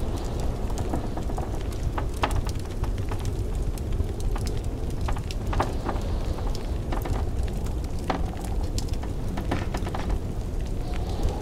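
Wood fire crackling in a fireplace, irregular sharp pops and snaps every second or so, over a steady low rumble of blizzard wind.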